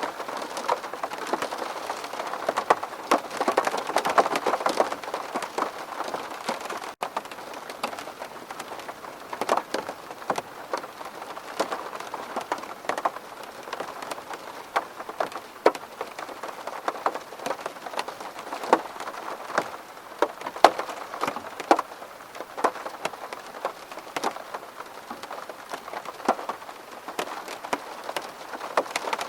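Steady rain falling on a window pane, with many separate drops ticking irregularly on the glass over a constant hiss of rainfall.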